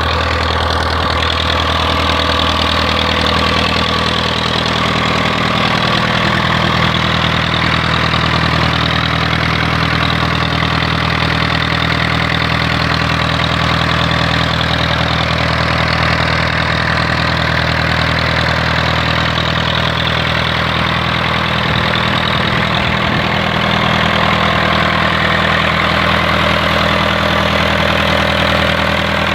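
Perkins four-cylinder diesel engine running at a steady speed, driving a coupled 6-inch high-pressure water pump.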